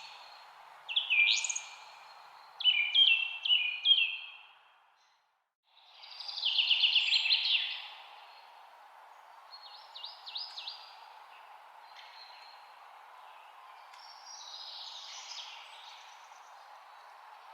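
Songbirds chirping and singing: short, quick, sweeping notes over a steady background hiss. The sound cuts out completely for under a second about five seconds in, then comes back with a loud run of rapid notes, followed by fainter scattered calls.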